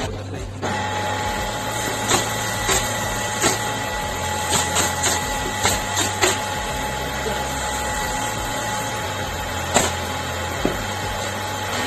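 A small electric motor running steadily with a thin whine, while sharp taps and knocks come every second or so.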